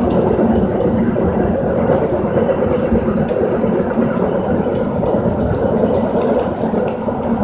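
Metra commuter train running along the track, heard from inside the car's vestibule: steady wheel-on-rail running noise with a low, even hum.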